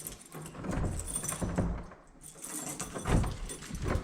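Keys jangling and knocking as a temporary office door is unlocked and opened, with a louder knock about three seconds in.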